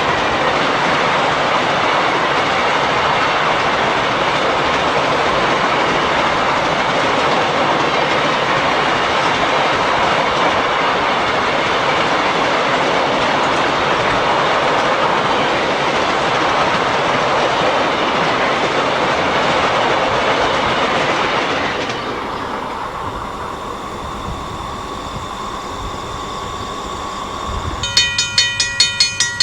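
A freight train rolling past, its cars' wheels clicking over the rail joints with a steady rumble that drops away about three quarters of the way through. Near the end a ringing bell starts, struck about twice a second.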